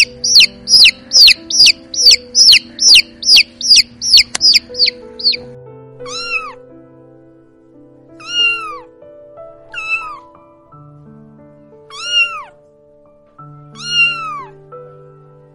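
Baby chicks peeping fast, about three sharp falling cheeps a second, for the first five seconds. Then a kitten meows five times, each a thin mew that rises and falls, over soft background music with held notes.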